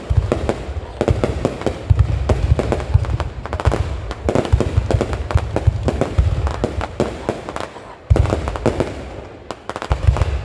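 Fireworks display: rapid, overlapping sharp cracks and crackles over deep booms of aerial shells, with a fresh loud volley about eight seconds in that fades before another starts near the end.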